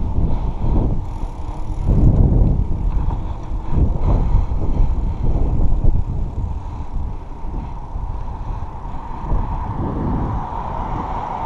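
Wind buffeting the microphone, with tyre and road noise from a moving bicycle, in uneven gusts. A steady high tone swells near the end.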